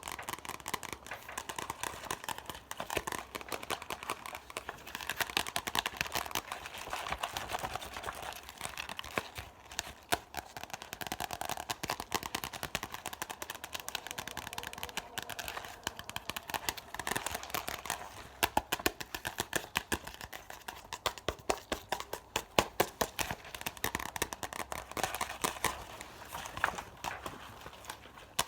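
Fast ASMR mouth sounds close to the microphone: a dense, rapid stream of tongue and lip clicks and smacks.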